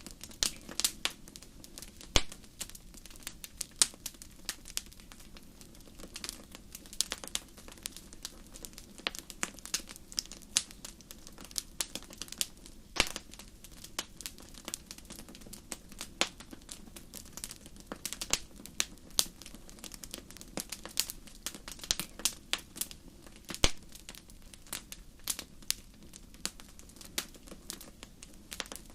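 Wood fire crackling: a steady stream of irregular snaps and pops from burning firewood over a soft low hiss, with a few louder pops now and then.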